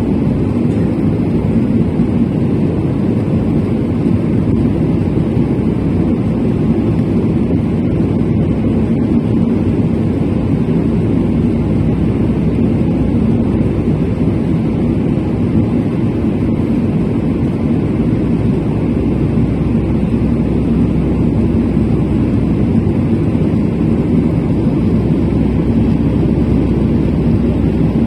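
Airbus A319 jet engines and airflow in flight after takeoff: a steady, even drone that holds at one level throughout.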